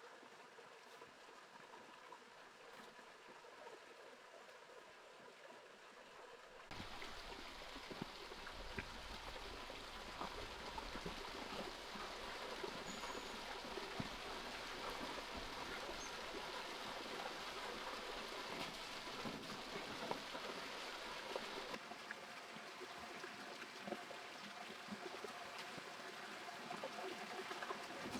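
Running or falling water, a steady rushing and pattering noise with scattered small drips. It is faint at first, becomes suddenly louder and fuller about seven seconds in, and changes character again a few seconds before the end.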